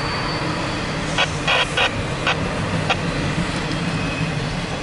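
Intermodal freight train rolling past with a steady rumble of railcars. A faint high wheel squeal fades out right at the start, and a run of sharp clicks comes from the wheels about a second in, with one more click a little later.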